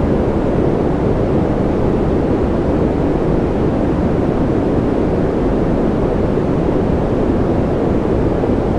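Continuous white noise for baby sleep: a steady, even rushing hiss, heaviest in the low and middle range, with no change in level.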